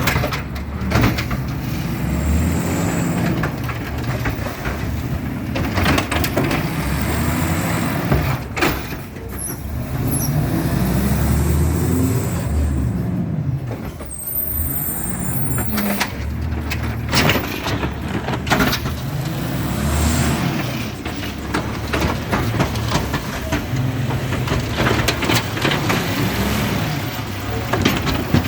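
Automated side-loader garbage truck with an Amrep arm. Its engine revs up and falls back again and again, with scattered knocks and clanks and a few short hisses of air.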